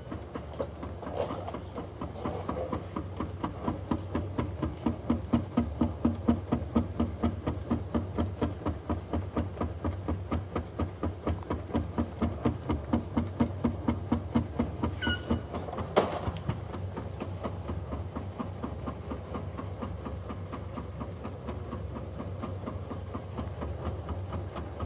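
Car shaken on a vibration test stand: a steady hum from the stand under fast, even knocking, about three knocks a second, strongest in the first half and easing later. The knocks, heard as coming from the left, are from badly worn engine mounts. One sharp click about 16 seconds in.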